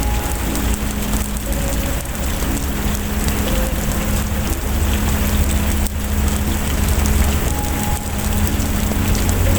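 Steady heavy rain falling, with a deep low rumble underneath that swells in the middle and again near the end.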